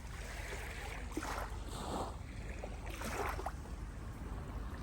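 Water sloshing and splashing in irregular swells over a low steady rumble.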